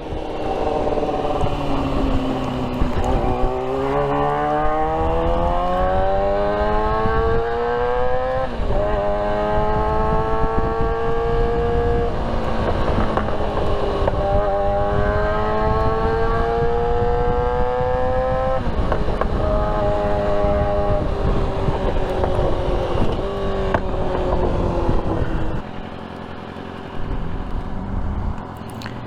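Motorcycle engine accelerating hard through the gears, its pitch climbing over several seconds and dropping at each upshift, over a steady rush of wind noise. Near the end the engine eases off and goes quieter.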